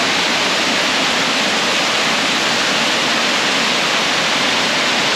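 Brandywine Falls waterfall rushing steadily: a loud, even hiss of falling water that does not change.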